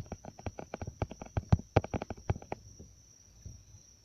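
Phone camera shutter clicking in a fast, irregular run as the picture button is pressed over and over, about eight clicks a second, stopping about two and a half seconds in.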